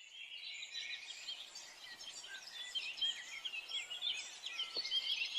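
A chorus of many small birds chirping, a dense overlapping chatter of short high calls that rise and fall.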